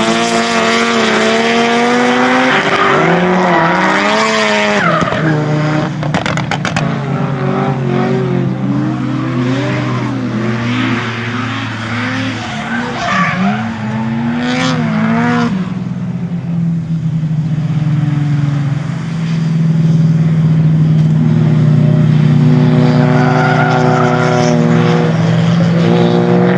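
Drift car's engine revving up and down through a drift run, with tyre squeal. About halfway through, the engine note settles into a steadier, loud drone.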